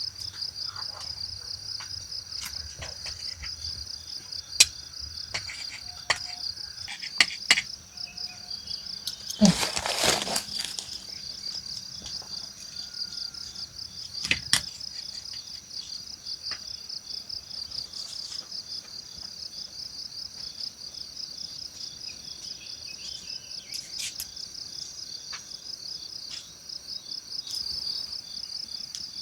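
Insects, cricket-like, chirping in a steady fast pulsing trill, with scattered sharp clicks and one louder rustling knock about ten seconds in.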